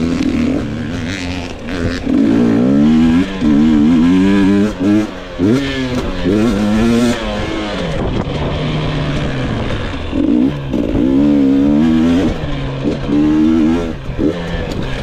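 2022 GasGas EX 250 two-stroke dirt bike engine being ridden hard, revving up and dropping back over and over as the throttle is worked, its pitch rising and falling with each burst.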